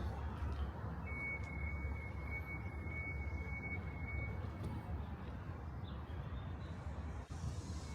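Tram's steady low rumble. From about a second in to about four seconds, a high electronic beeping tone sounds, then stops.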